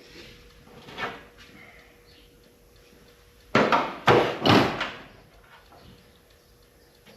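Hard parts being handled during engine work: a softer scrape about a second in, then three loud, short scraping clunks in quick succession, about half a second apart.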